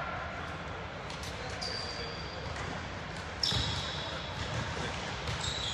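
Basketball being dribbled and bounced on a gym floor during play, with voices in the background.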